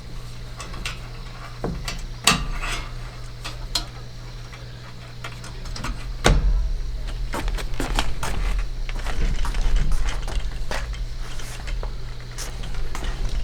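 Scattered knocks and clicks of camping gear being handled, over a steady low hum.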